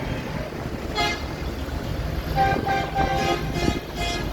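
Vehicle horns tooting over the low rumble of passing engines: one short toot about a second in, then a run of several toots.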